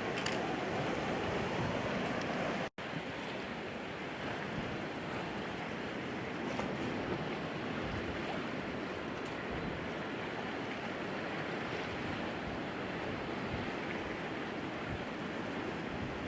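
Steady rushing of wind and surf, with wind buffeting the microphone; the sound drops out for an instant near three seconds in.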